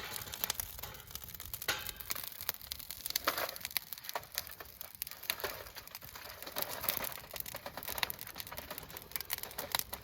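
Packaging crinkling and rustling as it is handled, with scattered irregular clicks and crackles.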